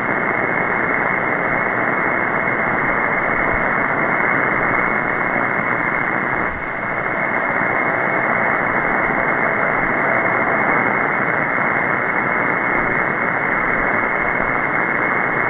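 Steady shortwave static hiss from a receiver demodulating an open 20-metre upper-sideband channel between transmissions, with no station heard. The hiss is narrowed to the sideband's voice passband and dips briefly about six and a half seconds in.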